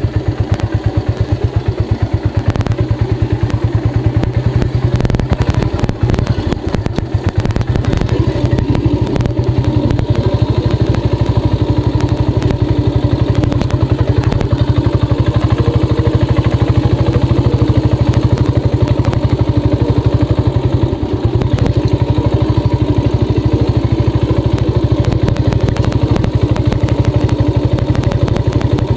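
Royal Enfield Bullet 350 cast iron engine, a single-cylinder four-stroke, running steadily with an even, rapid train of firing pulses and some clatter.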